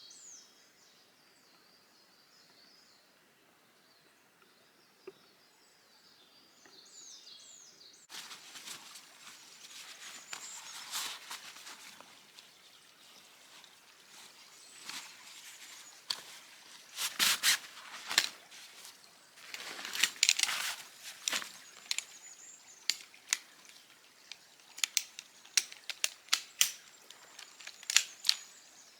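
Faint birdsong, then from about eight seconds in, dry wood crackling and snapping: irregular sharp cracks, with loud clusters in the middle and single pops near the end.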